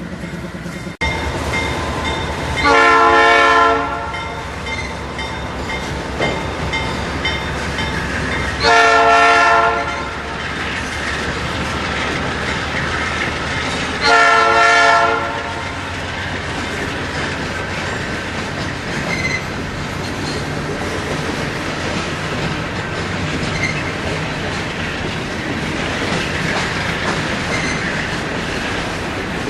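Diesel freight locomotive horn sounding three blasts of about a second each, roughly six seconds apart, over the steady rumble and clatter of a passing train's wheels on the rails.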